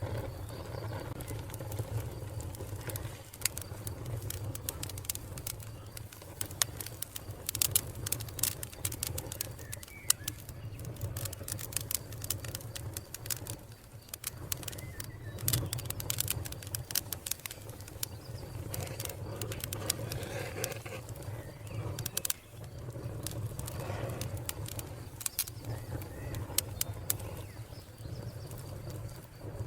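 Wood fire crackling: frequent sharp pops and snaps, in clusters, over a steady low rumble of the flames.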